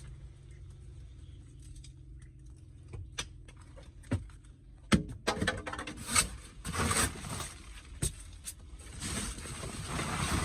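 A low steady hum with a few sharp clicks, then from about five seconds in a run of knocks and scraping.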